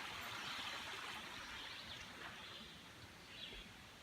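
Small stream flowing, a steady hiss that slowly fades, with a few faint bird chirps in the second half.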